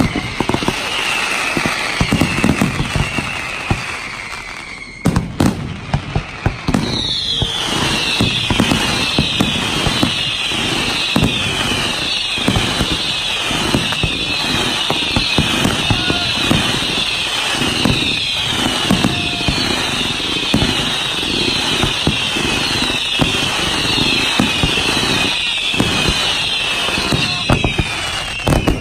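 Fireworks going off in rapid succession: a dense string of bangs and crackle, with a short lull about five seconds in. From about seven seconds in, a long run of overlapping whistles, each falling in pitch, comes one after another over the bangs.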